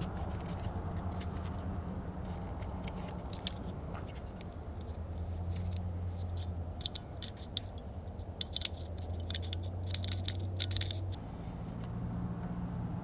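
A steady low mechanical hum that changes pitch about eleven seconds in, with a run of light metallic clicks and jingles in the middle.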